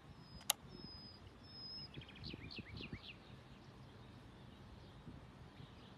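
Faint outdoor background noise with birds calling: two short high whistled notes near the start, then a quick series of falling chirps about two to three seconds in. A single sharp click about half a second in.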